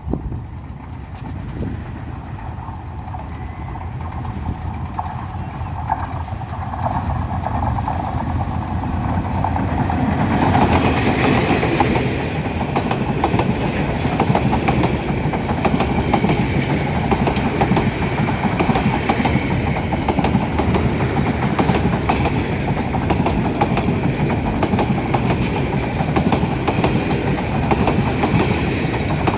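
A train approaching, getting steadily louder over the first ten seconds or so, then passing close by, its wheels clattering over the rails in a steady loud rumble.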